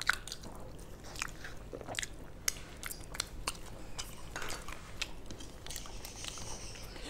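Close-miked eating sounds: chewing and biting into food, with irregular sharp clicks and smacks of mouths and fingers.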